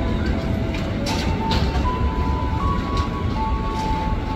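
Low, steady rumble of a KRL commuter electric train approaching on the tracks. Thin sustained tones hold and then step between pitches over it, and a few sharp clicks come through.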